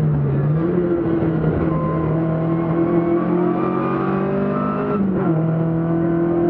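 BMW 2002 Ti rally car's engine running hard at speed, heard onboard. The engine note sags briefly at the start, climbs slightly, dips again about five seconds in, then holds steady.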